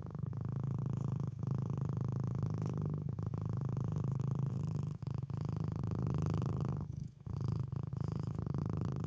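A cat purring steadily, a low, even rumble broken by a few short pauses.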